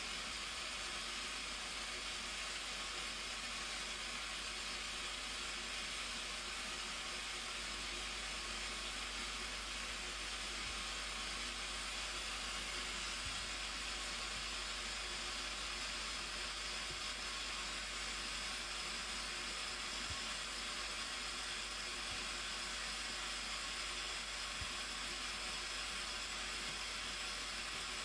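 Steady rushing noise of falling water, a waterfall's unbroken hiss that holds at one level throughout.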